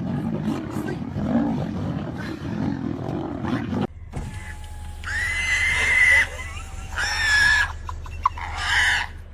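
Lions growling and snarling in a fight, a dense low rumble that cuts off suddenly about four seconds in. It is followed by three high, held cries, the first and longest about a second and a half.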